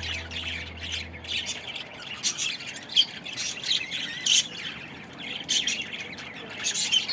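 A flock of birds chirping and squawking, a dense chatter of many short, high calls overlapping.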